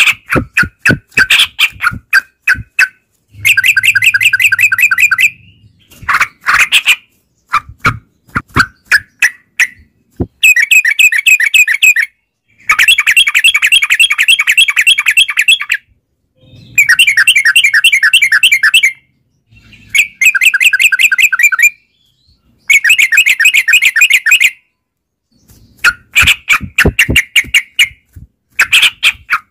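Yellow-vented bulbul (trucukan) singing hard and without pause: loud bursts of fast, chattering rolled notes, each two to three seconds long, separated by short gaps filled with single sharp chirps.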